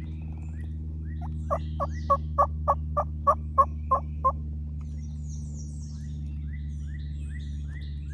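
Turkey yelping: a series of about ten loud, evenly spaced yelps, about three a second. Songbirds chirp after it, over a steady low hum.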